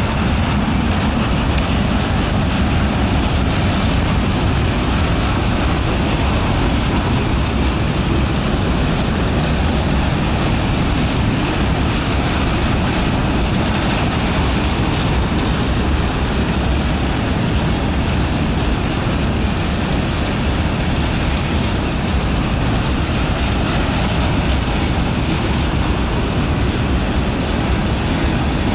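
Freight train's covered hopper cars and tank cars rolling slowly past, a steady rumble of steel wheels on the rails.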